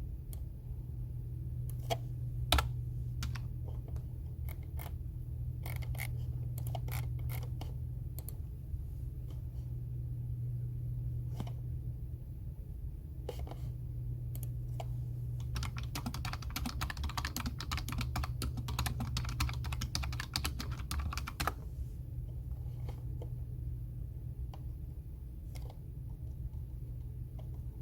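Computer keyboard typing: scattered single keystrokes at first, then a fast, continuous run of typing for about six seconds past the middle, then a few more stray keystrokes. A steady low hum runs underneath.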